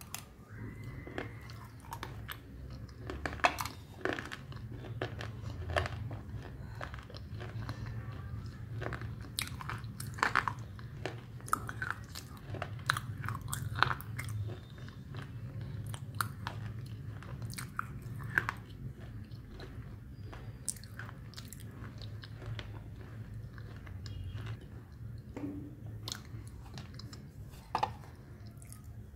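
A person biting into and chewing a hard, crumbly chunk coated in white powder: many sharp, irregular crunches with chewing between them. A steady low hum runs underneath.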